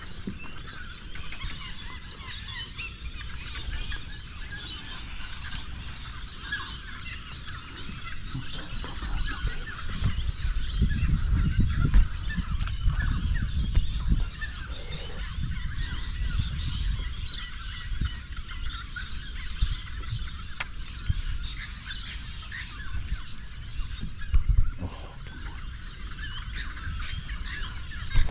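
Birds calling and chattering continuously, with uneven low wind rumble on the microphone.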